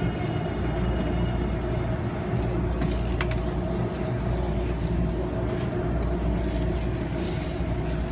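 Taipei Metro C321 train standing at the platform just after stopping, its onboard equipment giving a steady low rumble and hum, with a couple of faint clicks about three seconds in.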